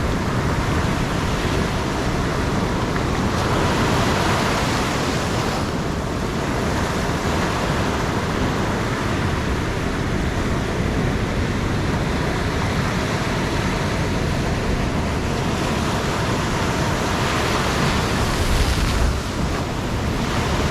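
Ocean surf breaking and washing on a beach, a steady rushing noise that swells louder about four seconds in and again near the end, with wind buffeting the microphone.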